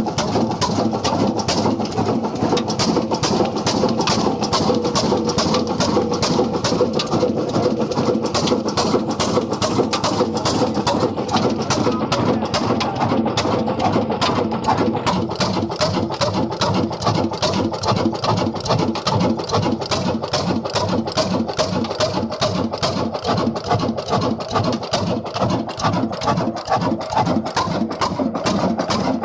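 Old single-cylinder black diesel engine running steadily under way, its exhaust beating evenly at about three beats a second.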